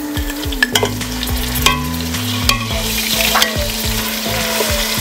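Onions and ginger-garlic paste sizzling as they fry in oil in a stainless steel pot, stirred with a metal slotted spatula that clicks sharply against the pot several times.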